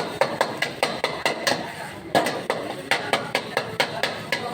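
Metal spatula knocking and scraping against a cooking pan while stirring fried rice, with sharp, irregular clinks several times a second.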